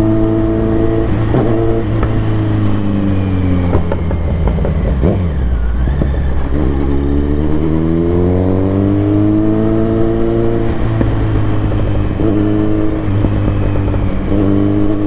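Kawasaki Z900's inline-four engine under way, its pitch falling as the throttle eases off, then rising as it accelerates from about six seconds in, dropping back briefly and settling to a steady cruise.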